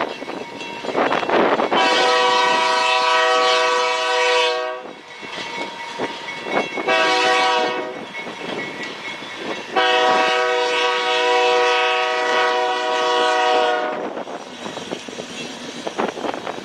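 Locomotive air horn sounding a long blast, a short blast, then another long blast, over the steady running noise of the train.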